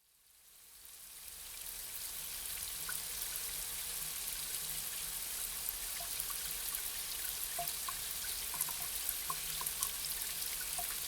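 Light rain falling steadily: a fine hiss with scattered drips. It fades in from silence over the first two seconds.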